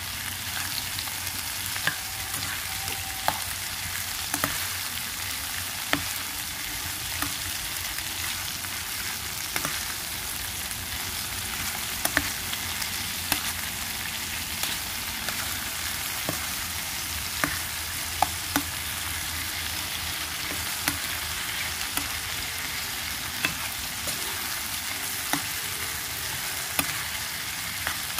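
Food frying in hot oil: a steady sizzling hiss with irregular sharp pops and crackles about every second or two.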